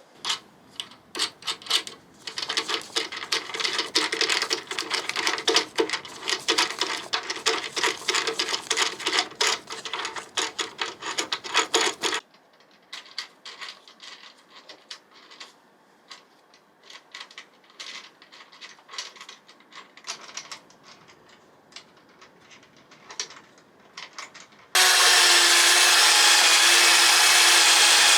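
Hand tool work: rapid, dense scraping strokes for about twelve seconds, then sparser clicks and scrapes. A loud, steady machine noise with a hum starts near the end and cuts off.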